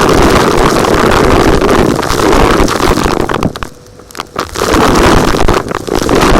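Vacuum cleaner running loud while sucking up small rocks, which rattle and crackle through the hose. The sound drops away for about a second just past halfway, then the vacuuming comes back at full strength.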